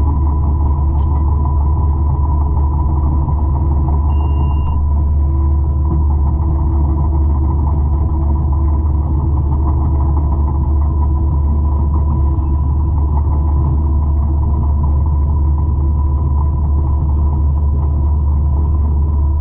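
200-horsepower forestry mulcher's diesel engine running steadily at working speed. It is a loud, deep drone with a constant whine over it, and it does not change.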